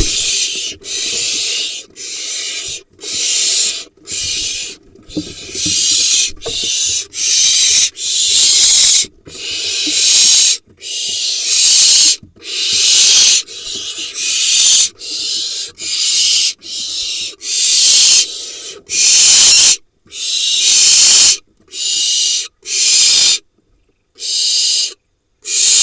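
Barn owl nestlings giving their harsh hissing begging calls, one after another about once a second, the food-begging that greets a parent bringing prey.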